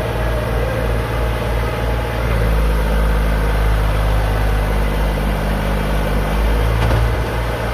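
Tractor's diesel engine running steadily, its note shifting a couple of seconds in and again near the end.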